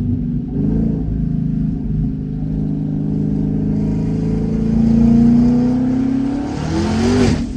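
Twin-turbo Ford Mustang with open turbo dump pipes accelerating hard. The engine note climbs with loud turbo noise over it, then a loud rush of air near the end as the throttle closes and the blow-off valve vents.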